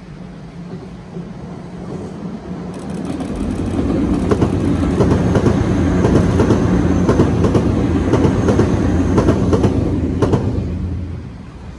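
Nankai 50000-series Rapi:t limited express electric train passing, building to a loud rumble with a quick clickety-clack of wheels over the rail joints, then fading away near the end.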